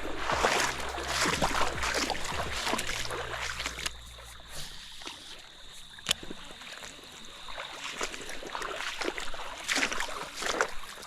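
A grindy, rough-running fishing reel being cranked through a retrieve, over splashing, gurgling water. It is louder for the first few seconds, then softer, with a sharp click about six seconds in.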